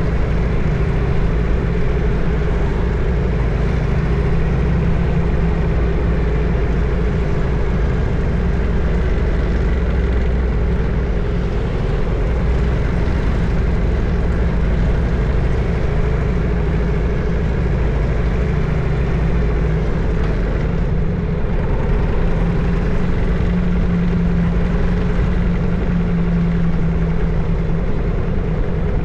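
Harley-Davidson FXSTS Springer Softail's Evolution V-twin running steadily under way, its engine speed holding fairly even throughout.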